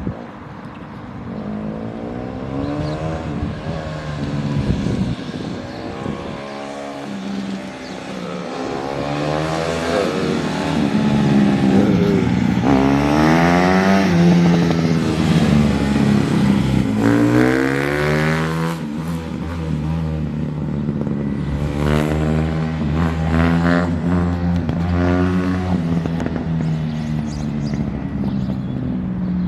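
Honda CRF150R dirt bike's single-cylinder four-stroke engine being ridden, its pitch climbing under throttle and dropping back again and again.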